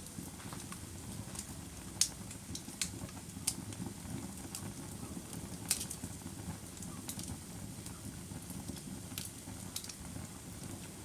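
Wood fire crackling: a steady low rumble of burning logs with sharp pops and snaps at irregular intervals, a handful of them standing out clearly.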